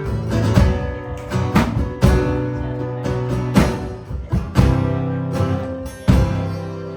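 Instrumental break of a country song: acoustic guitar strummed with sharp chord attacks over held low notes, no singing.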